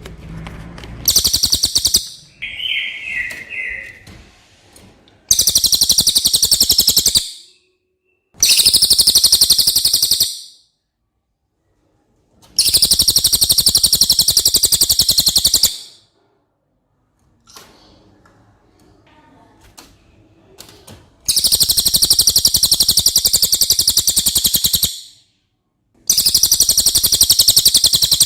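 A cililin singing: six very high, rapid, buzzing trills of one to three seconds each, separated by pauses, with a short lower falling phrase about two and a half seconds in.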